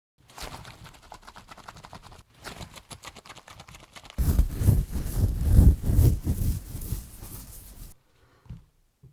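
Close-miked scratching and scraping right on the microphone, in quick irregular strokes. It grows much louder and deeper from about four seconds in, then stops about a second before the end.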